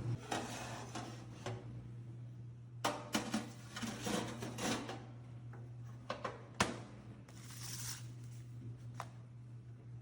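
Kitchenware being handled: several sharp clinks and knocks over a steady low hum, which cuts off at the end.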